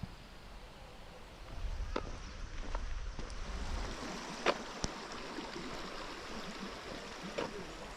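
A small stream trickling and gurgling, with a few short sharp clicks and a low rumble for a couple of seconds near the start.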